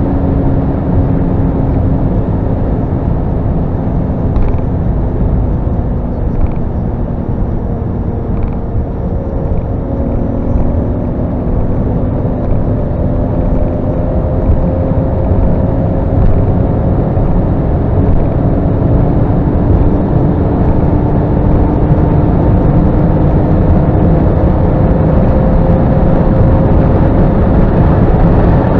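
BMW E34 M5's straight-six engine under full throttle in a high gear at over 200 km/h, heard inside the cabin over heavy wind and tyre noise. Its note sags slightly for the first ten seconds, then climbs slowly and steadily as the car pulls toward 245 km/h.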